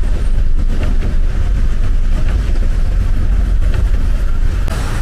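Steady, loud low rumble of city street noise.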